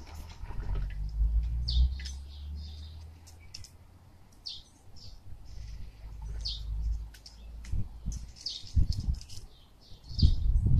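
Small birds chirping on and off, over low rumbling and dull thumps from a dog nosing and pushing an empty plastic bucket; the thumps are loudest near the end, as the dog gets its head inside the bucket.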